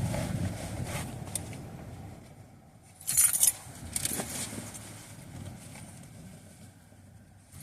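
A low rumble fades away over the first two seconds. About three seconds in comes a brief, bright metallic jingle, and a few faint clicks follow.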